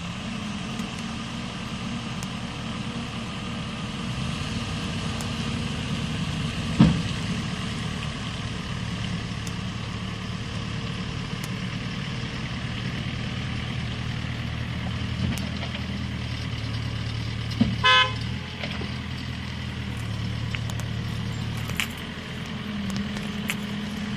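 Vehicle engine running steadily, with a sharp knock about seven seconds in and a short car horn honk about eighteen seconds in.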